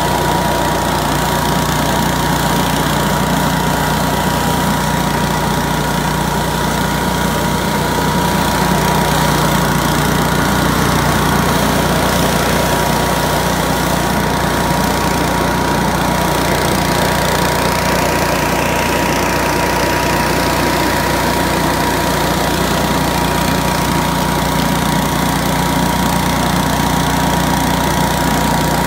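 Billy Goat F601S push leaf blower running steadily at work, its 170 cc Robin ST170 engine driving the fan, with rushing air and a steady whine over the engine note.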